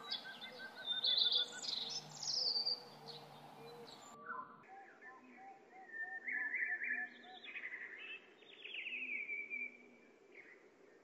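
Birds singing: bright chirping phrases every couple of seconds, some ending in a falling trill, over quieter, steadily repeated short calls.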